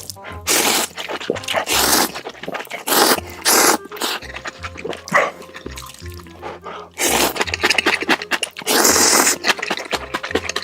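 A person slurping and eating noodles in loud, noisy bursts of about a second, several times over, with background music that has a steady beat.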